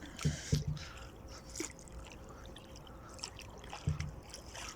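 Water trickling and splashing, with a few dull knocks against a small boat: three close together near the start and one more near the end.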